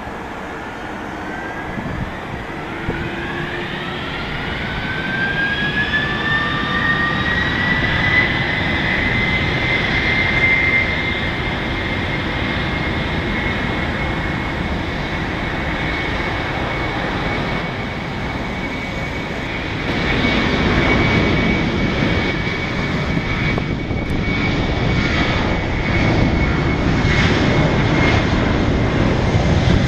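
Boeing 767-300ER's twin jet engines spooling up for takeoff: a whine rising in pitch over the first ten seconds, then holding steady over a rising roar. The roar grows louder about twenty seconds in.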